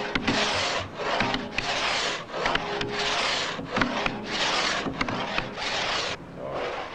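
Two-man pit saw (Dielsäge) ripping an oak log lengthwise: a regular series of rasping strokes, about one a second, each one a downward cutting stroke, since the saw cuts only on the pull down. The strokes stop about six seconds in.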